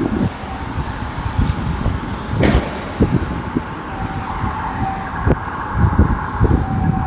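City street traffic: motor vehicles passing with a low rumble and irregular thumps. About four seconds in, a steady high tone from an emergency vehicle's siren joins and holds.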